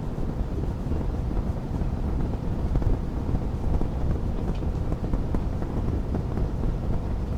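Wood fire crackling, with small scattered pops over a steady low rumble.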